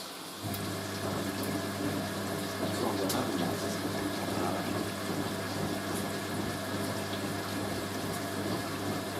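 Hoover A3060 washing machine's drum motor starting about half a second in and running with a steady hum, turning the drum with water rushing and sloshing during the rinse.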